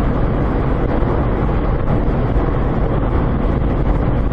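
Steady road and engine noise of a moving car as picked up by a dashcam microphone, an even rumble with no sudden impacts.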